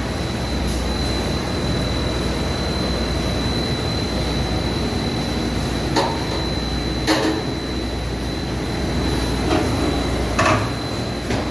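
Factory machinery running with a steady mechanical noise and a constant high-pitched whine, with a few sharp metallic clanks at irregular intervals in the second half.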